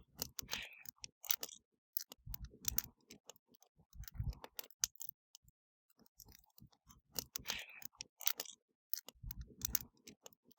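Wood fire crackling: irregular sharp snaps and pops, with a few dull low thumps among them.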